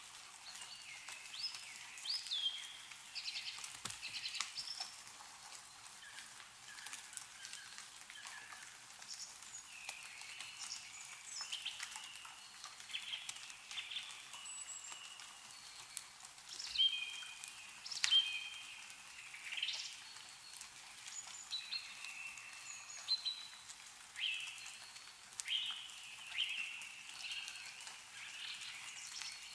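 Several songbirds chirping and calling in short repeated phrases, with scattered faint drips of melting snow falling from trees.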